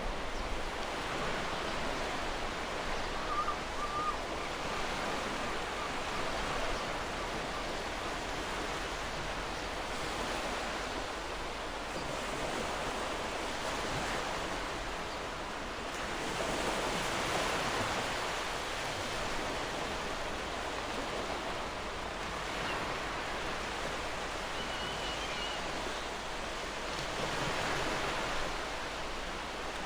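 Gentle ocean surf: a steady wash of breaking waves that swells and eases every several seconds. Faint bird chirps come in twice, a few seconds in and again near the end.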